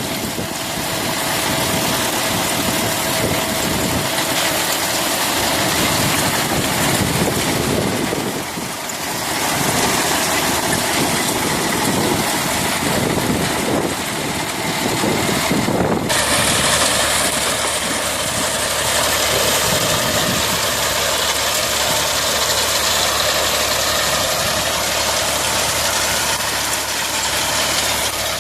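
Tractor engine running steadily under a dense mechanical noise that changes character abruptly about halfway through.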